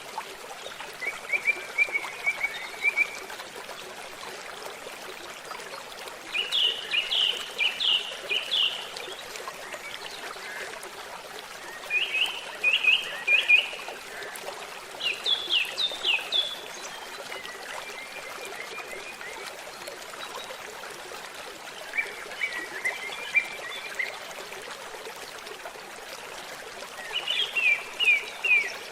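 A stream trickling steadily while a songbird sings short phrases of quick falling chirps, about seven of them a few seconds apart.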